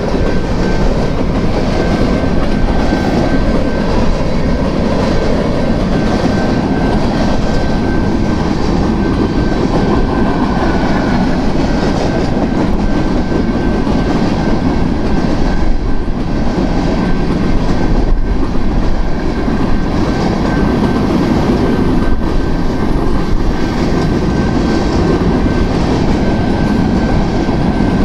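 BNSF grain train's covered hopper cars rolling past at speed, a steady loud rumble with wheels clacking over the rail joints and a thin steady high tone running through it.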